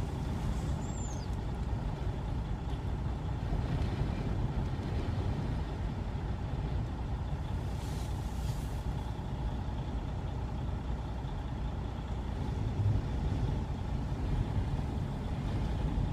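Steady low rumble of a stopped vehicle with its engine idling while strong wind buffets it, with a brief high squeak about a second in and a short hiss near the middle.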